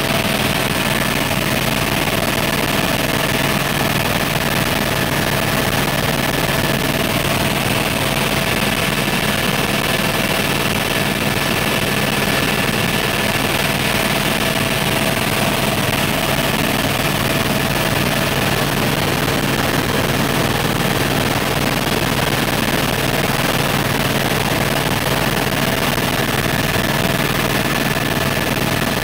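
Helicopter engine and rotor noise heard from inside the cabin: a loud, steady drone with a steady high whine over it.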